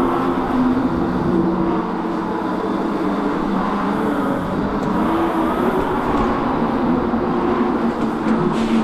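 Ebox dragster mini bike running steadily under way, with a wavering motor tone over road and wind noise.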